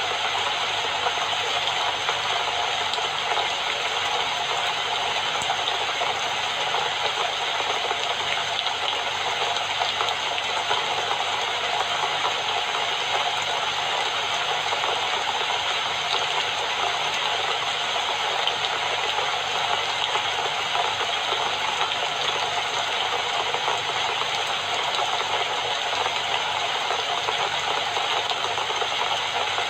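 Steady rainfall, an even hiss of drops that keeps the same level throughout.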